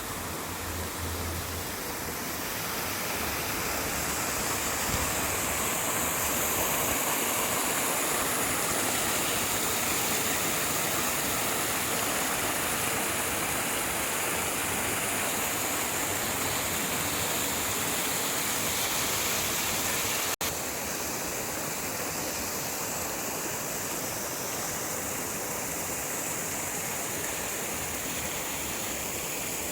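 Steady rushing of rainwater pouring over a check dam, with a brief break about twenty seconds in.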